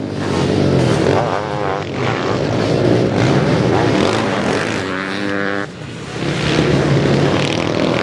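Sidecar motocross outfits racing, their engines revving up and down. One engine rises in pitch about five seconds in and cuts off sharply just before the six-second mark.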